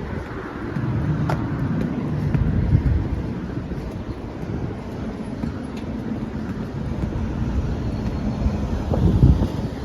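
A car driving along: steady road and engine noise, with some wind noise, swelling briefly about three seconds in and again near the end.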